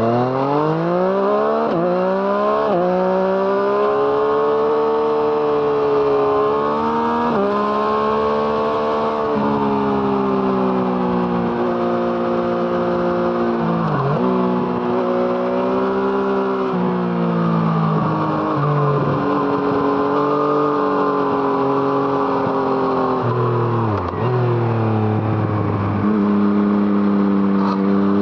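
Yamaha MT-09's 847 cc inline three-cylinder engine running through an Arrow Thunder aftermarket exhaust under way. The revs climb and drop sharply several times in the first ten seconds, hold steady in between, and fall away twice on a closed throttle before rising again.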